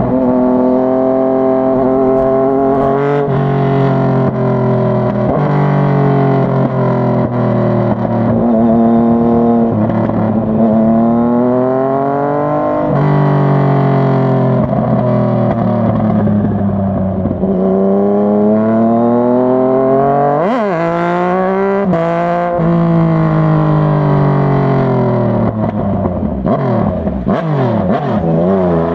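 Yamaha MT-09's 847 cc crossplane inline-three engine pulling through the gears while riding, its note climbing and falling again and again as the revs rise and the gears change. There are quick dips and surges in pitch near the end.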